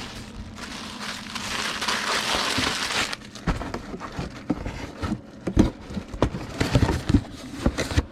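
Bubble wrap crinkling and rustling for about three seconds as a parcel is packed, then a run of light knocks and taps as the wrapped comic books are handled in a cardboard flat rate box.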